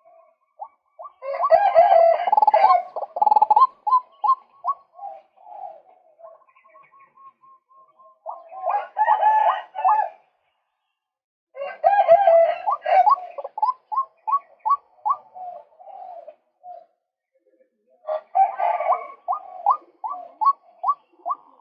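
Male white-breasted waterhen calling in four bouts. Each bout opens with a loud, harsh chatter and runs into a string of repeated short notes, about three or four a second, that fade away.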